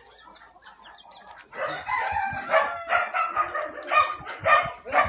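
Chickens calling: faint chirps at first, then from about a second and a half in a run of loud, repeated calls, about two a second.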